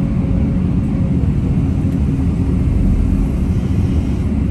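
Heavy diesel engine running with a steady, loud low rumble.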